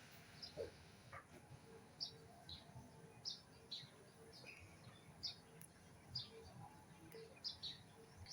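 Faint bird chirping: short high chirps repeated every half second or so, with fainter lower notes between them.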